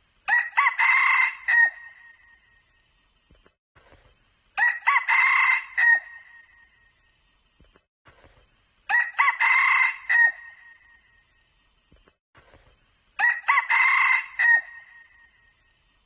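Red junglefowl cock crowing four times, about once every four seconds, each crow a short clipped call of about a second and a half, the crows nearly identical to one another.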